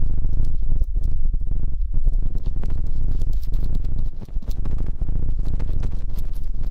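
Close-up ASMR ear sounds: dense rubbing over a low rumble, with many small crackles and clicks, briefly dropping off a little after four seconds in.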